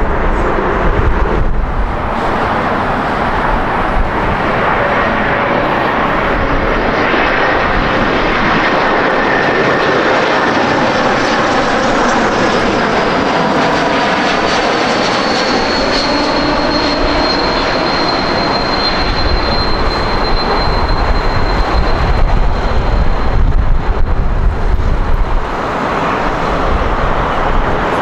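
A jet airliner's engines pass close by: a loud, steady rush with a high whine that drops in pitch about halfway through, then holds as the aircraft moves away. Wind buffets the microphone near the start and end.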